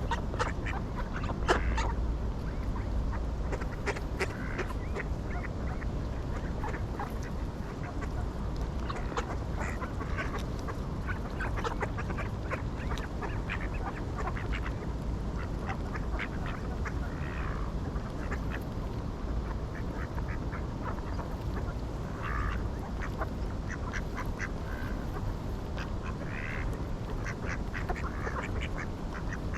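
Ducks quacking, many short calls scattered throughout over a steady low background rumble.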